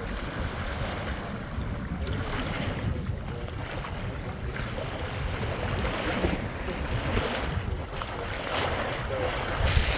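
Wind buffeting the microphone outdoors, a steady low rumbling noise with irregular gusts.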